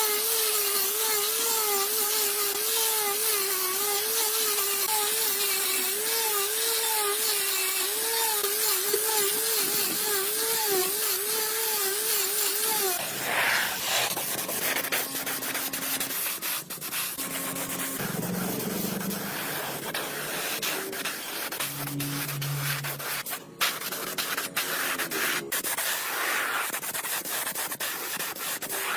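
Sanding: for about the first half a small electric tool's motor runs with its pitch wavering up and down under the load, then it stops and a rough, scratchy rubbing with scattered clicks and scrapes takes over.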